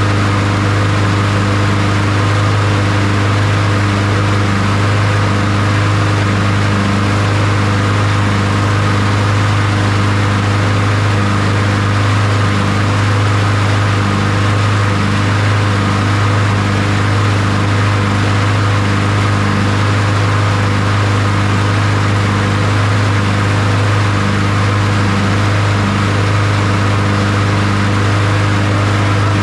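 Honda HRR216 push mower's small four-stroke engine running at a steady speed, unchanging throughout.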